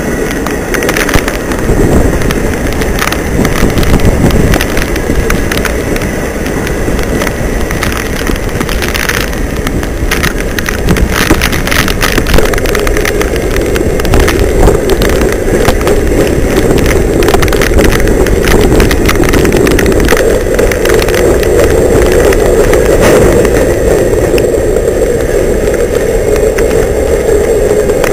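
Long freight train of loaded and empty cars, mostly covered hoppers, rolling past close by: a steady rumble of steel wheels on rail broken by many clicks and clunks.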